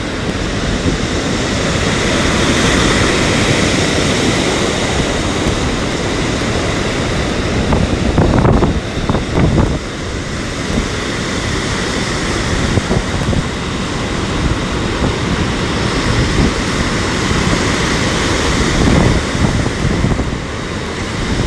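Storm surf breaking and churning on the shore, with strong wind buffeting the microphone. The sound surges louder a few times, most strongly about eight to ten seconds in.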